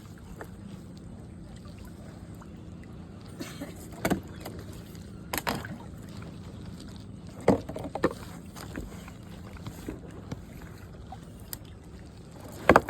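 Kayak on the water: a steady low wash with a few short sharp splashes or knocks, about four, five and a half and seven and a half seconds in.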